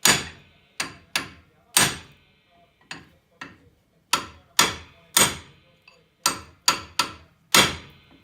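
Hammer blows on metal, about a dozen sharp ringing strikes at an uneven pace with a short lull partway through: working the seized brake pad retaining pins of a VW T4's front brake caliper.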